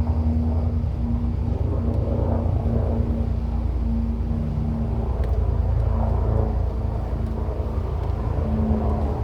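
Motorboat engine running steadily, a low rumble with a constant hum.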